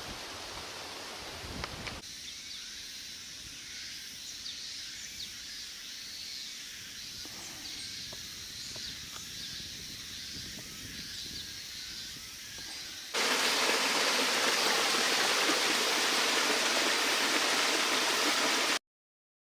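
Steady rushing outdoor noise with faint, repeated high chirps through the middle. About thirteen seconds in it turns abruptly much louder and hissier, then cuts off dead near the end.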